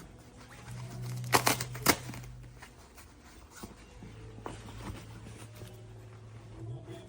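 Handling noise: crinkling and rustling with a few sharp clicks about a second in, over a low steady hum.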